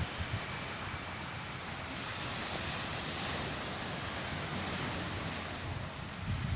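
Sea surf washing onto a sandy beach, a steady rush that swells a little in the middle, with wind buffeting the microphone near the start and end.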